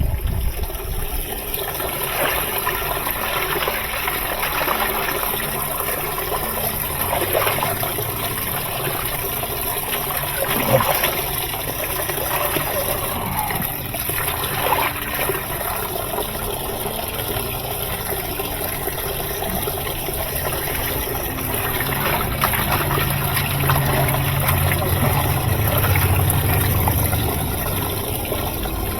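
Water running and trickling in a steady stream, with a low hum that comes up for a few seconds near the end.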